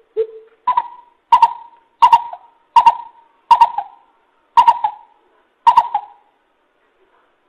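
Coucal (bìm bịp) calling: a low hoot, then a series of seven deep hooting notes about one every 0.7 s, stopping about six seconds in. It is a decoy call played to lure coucals into traps.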